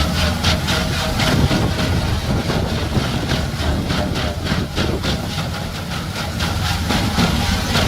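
Tractor-mounted branch trimmer at work: a heavy engine running steadily under a rapid, regular clatter of about four strokes a second.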